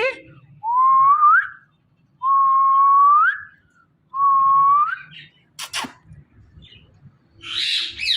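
Indian ringneck parrot whistling three times: each whistle is a long, clear tone that slides upward at the end. A quick falling squeak follows, then a harsh call near the end.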